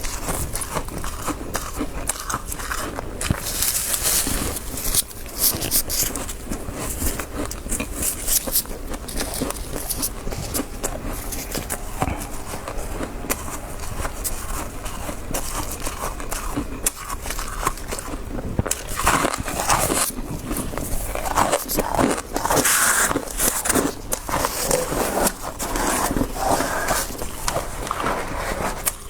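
Close-miked chewing of soft freezer frost: continuous crunching and crackling bites, growing louder for a few seconds in the second half.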